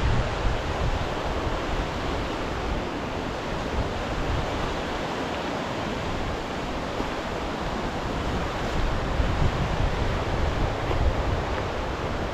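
Steady rush of waves breaking on the shore, with gusts of wind buffeting the microphone.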